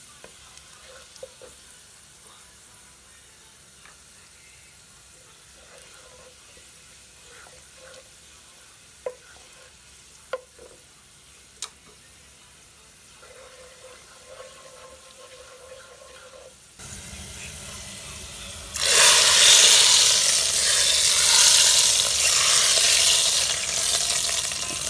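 Onion and cumin frying softly in hot oil, with a few sharp clicks of a spoon or utensil. About seventeen seconds in the sizzle grows, and about two seconds later it bursts into a loud, steady hiss as the hot tempering oil hits the dal.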